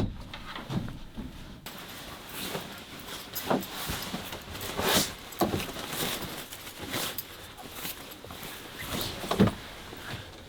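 Scattered knocks, bumps and rustling of a folding camping cot and gear being handled and loaded into the back of a truck.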